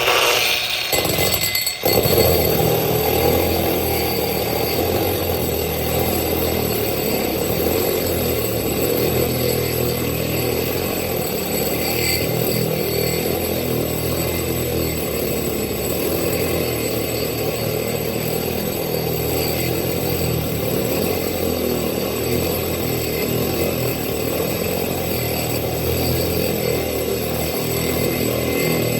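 Power drill boring a hole through window glass, the bit grinding steadily. It starts, drops out for a moment about two seconds in, then runs on evenly.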